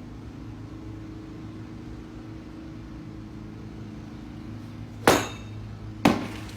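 Two sharp, loud impacts about a second apart near the end, the first with a short ringing tail, over a steady low hum.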